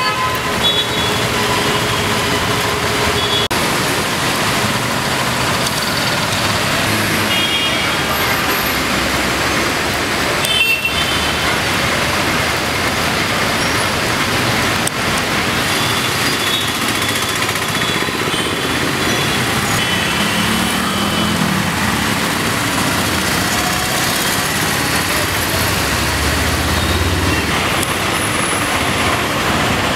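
Street traffic in heavy rain: a steady hiss of rain and wet road noise, with vehicles passing and a heavier engine going by about two-thirds of the way through and again near the end.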